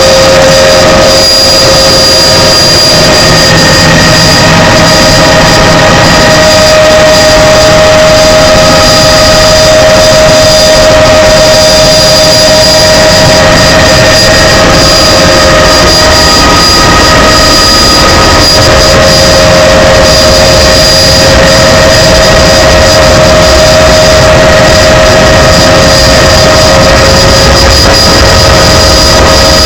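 Helicopter turbine engine and rotor running loud and steady, with several high steady whining tones over a constant rushing noise.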